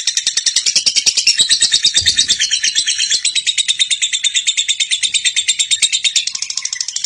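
Lovebird's long, unbroken chattering call (ngekek): a fast run of shrill chirps, about ten a second, with no pause.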